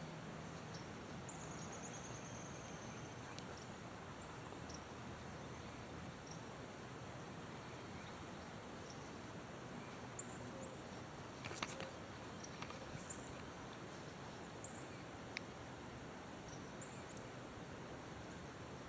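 Quiet rural outdoor ambience: a steady background hiss with faint, scattered high chirps and a few light clicks a little past the middle. No peacock call is heard.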